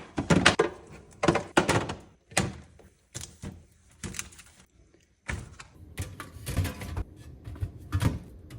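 Groceries and containers being set down and moved about on fridge shelves: a run of thunks and light knocks, with a brief quiet spell about halfway through.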